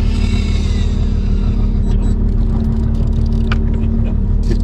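A boat's engine running with a steady low drone, over which an electric fishing reel's motor whines, sliding down in pitch and stopping about two seconds in. A few light clicks follow near the end.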